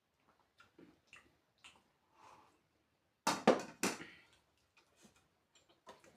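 Eating sounds: soft mouth smacks and small clicks, with two loud sharp knocks in quick succession a little past the middle, like tableware being knocked or set down.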